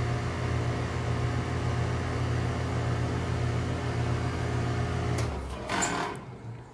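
2018 Goodman GSZ14 2-ton heat pump running with a steady hum, then shutting down about five seconds in. A click comes as the hum cuts off, followed by a short burst of noise as the unit stops.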